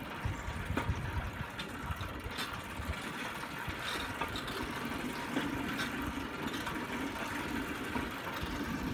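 Steel wheels of a pedal-powered rail bike rolling along railroad track: a steady rumble with scattered clicks and knocks.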